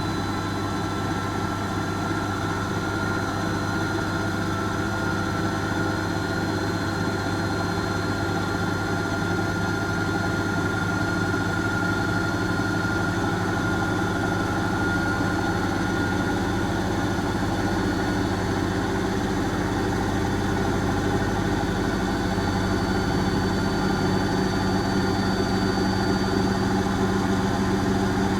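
Asko Quattro W6098X washing machine in its final high-speed spin: a steady drum-and-motor hum with a high whine that slowly rises in pitch, getting slightly louder.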